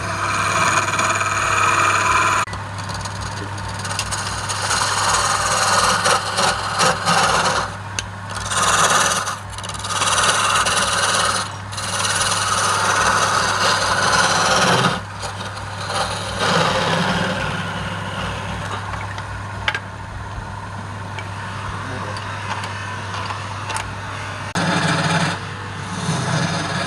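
Wood lathe running with a steady motor hum while a tool scrapes against the spinning workpiece in spells, stopping briefly several times and starting again.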